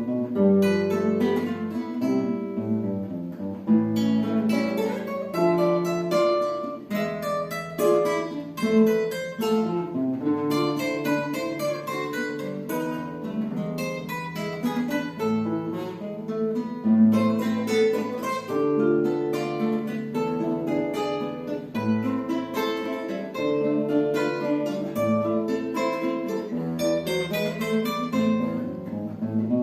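Two acoustic guitars playing a duet, with plucked notes in a continuous flowing melody over a moving bass line.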